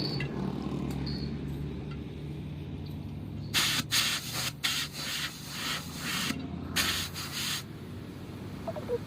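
Several short bursts of hissing, rasping noise from truck tyre puncture repair work, heard over a steady low hum.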